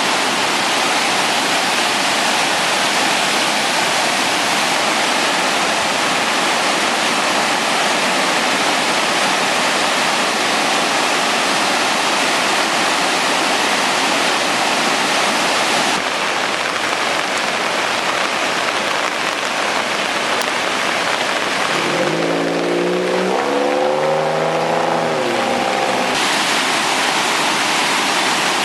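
Floodwater of the typhoon-swollen Kinokawa river rushing in a loud, steady roar. The sound changes abruptly about halfway through, and a wavering pitched tone rises above the water for about four seconds near the end.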